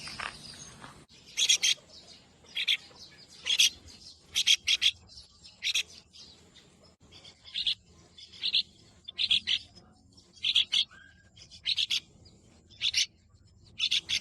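A bird calling with short, sharp chirps, singly or in quick pairs, about once a second.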